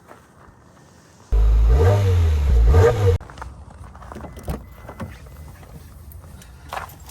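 Car engine revving loudly for about two seconds, its pitch rising and then falling before it cuts off suddenly, followed by a quieter stretch of scattered clicks and knocks.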